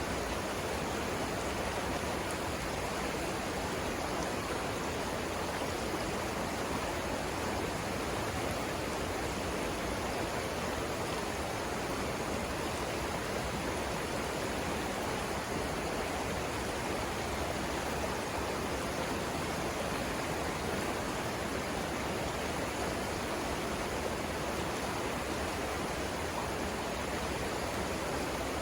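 River water rushing over rapids: a steady, unbroken roar of flowing water that holds the same level throughout.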